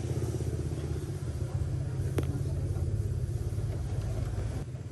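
A vehicle engine running low and steady, with a single sharp click about two seconds in; the engine sound stops shortly before the end.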